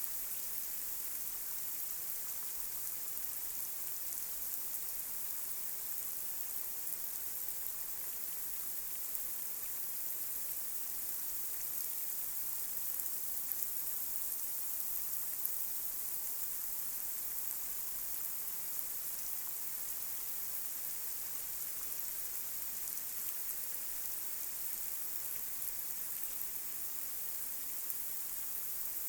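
Light rain falling on a street: a steady, even hiss of drops, with a few faint individual drop ticks.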